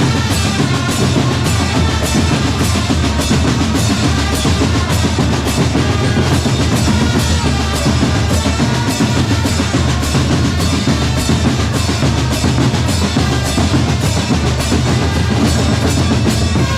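A drum corps playing: bass drums and snare drums beating a steady, driving rhythm with rolls, loud and continuous.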